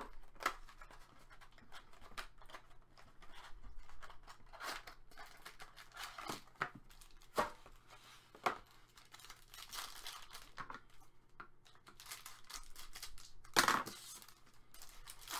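Trading cards and foil pack wrappers being handled: scattered light taps, card slides and wrapper rustling, with one louder rip or crinkle near the end as a pack is torn open.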